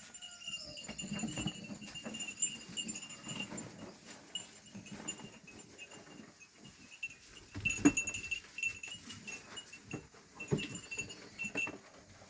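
Flock of sheep wearing bells coming in from pasture: the bells clink on and off while the sheep trot in, with scattered hoof knocks and rustling.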